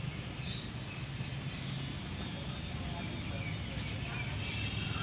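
Birds chirping in short, high calls, some sliding downward, over a steady low background rumble.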